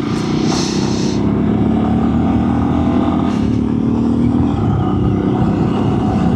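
Honda CRF300 dual-sport motorcycle's single-cylinder engine running under way, its pitch shifting a little as it holds road speed.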